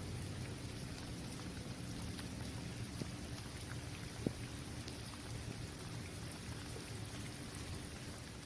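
Steady rain falling on a basketball court: a constant hiss dotted with the ticks of individual drops, one sharper drop hit about four seconds in.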